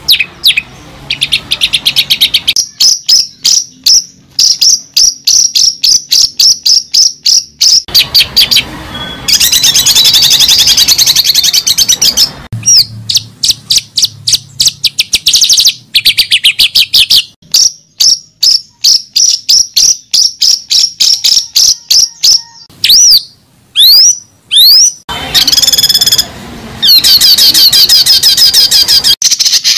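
Bird chirping in fast, loud runs of short repeated notes, with a few sweeping whistled calls about three-quarters of the way through.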